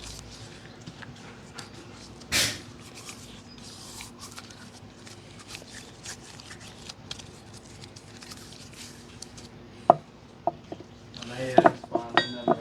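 Small metal parts being handled: light clicks and scrapes, a short loud rush of noise about two seconds in, and a run of sharp, ringing metallic clinks near the end.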